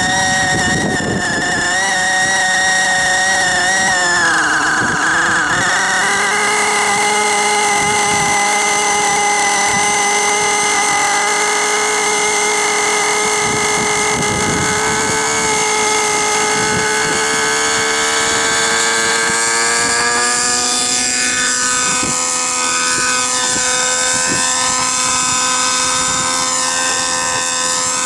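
Align T-Rex 600 Nitro Pro RC helicopter's Align 55H nitro engine and rotor running at high speed with a steady whine. The pitch dips about four seconds in, then climbs slowly.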